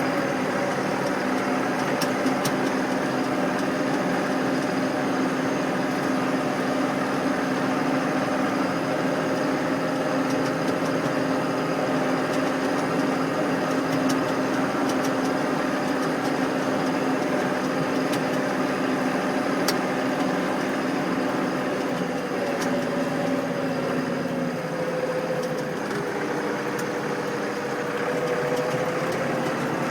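Massey Ferguson MF 4220 tractor's four-cylinder diesel engine running steadily at low revs. Its pitch drops slightly about two-thirds of the way through, then comes back up near the end.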